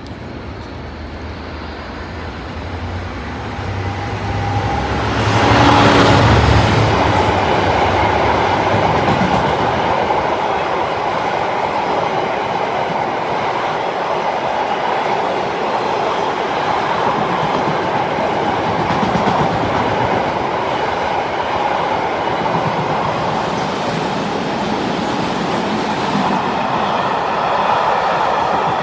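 A locomotive-hauled train passing close by. The sound builds as the locomotive approaches and is loudest about six seconds in, then the train's carriages or wagons run past steadily on the rails.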